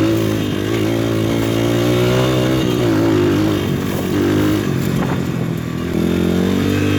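PitPro 140cc pit bike's single-cylinder four-stroke engine running under throttle while being ridden, its pitch rising and falling as the throttle opens and closes. Around five seconds in it eases off briefly, then picks up again.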